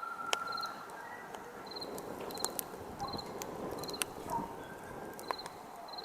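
Campfire crackling: a steady hiss broken by sharp pops and snaps of burning wood. Crickets chirp in a regular pulsed rhythm behind it.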